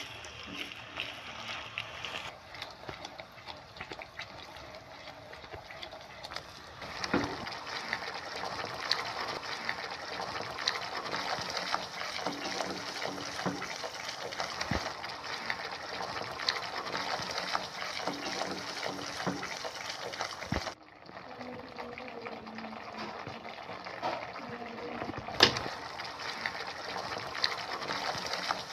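A thick paste sizzling as it fries in oil in a non-stick kadai, stirred and scraped around with a spatula, with small knocks of the spatula against the pan. The sound changes abruptly about two-thirds of the way through, and a sharp click comes shortly after.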